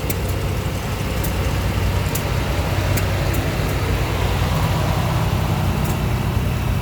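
An engine running steadily, with a few scattered sharp clicks.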